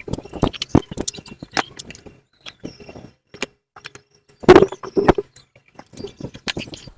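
Irregular clicks and knocks of hand tools and metal parts being handled while fitting a motorcycle exhaust, with a louder cluster of knocks about four and a half seconds in.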